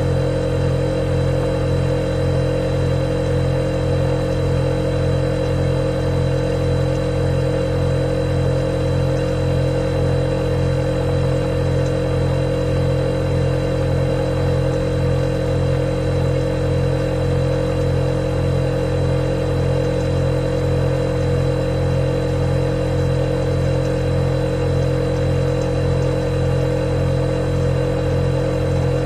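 Refrigerator compressor running with a steady, unchanging hum, a low drone with a higher tone on top and a faint high whine.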